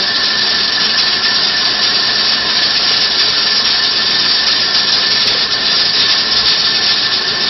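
Pressure cooker venting steam through its rocking weight valve: a loud, steady hiss with a faint thin whistle. The cooker is running too hot and blowing off excess pressure.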